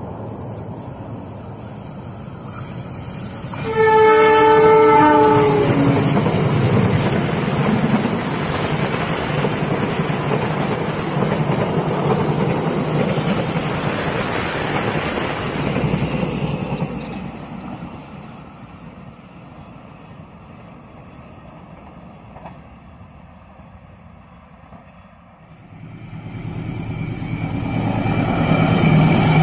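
A CC 206 diesel-electric locomotive sounds a two-second horn blast about four seconds in. Its passenger train then rolls past with a loud, steady rush of wheels on rails that fades away after about twelve seconds. Near the end a second train approaches, growing louder.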